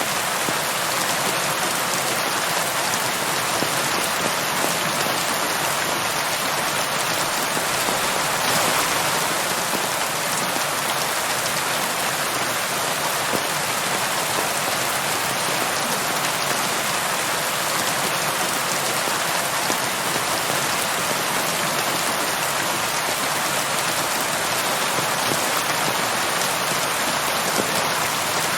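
Steady, even rain falling on a surface, a dense patter with no thunder or breaks.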